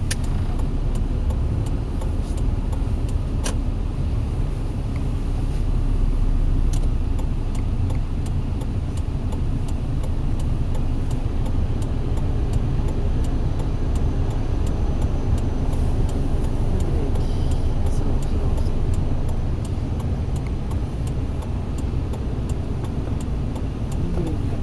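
Car engine and tyre noise heard from inside the cabin while driving, a steady low rumble, with a single sharp click about three and a half seconds in.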